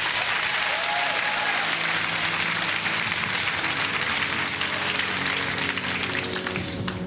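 Studio audience applauding, with music playing underneath; the applause thins out near the end.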